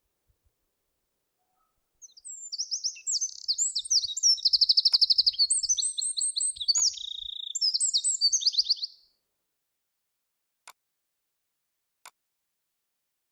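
A songbird singing one long, varied song of rapid high trills and whistled phrases for about seven seconds, starting about two seconds in. Two faint short clicks follow near the end.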